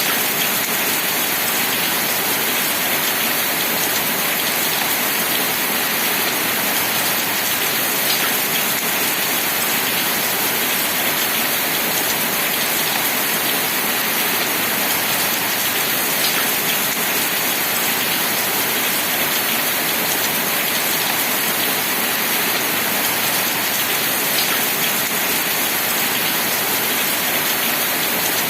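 Steady rain falling, an even hiss with occasional single drops standing out, about every eight seconds.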